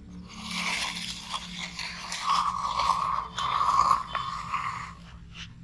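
Sand scraping and crunching as it is scooped and loaded into a toy dump truck. A steady hum comes in about two seconds in and stops near the end.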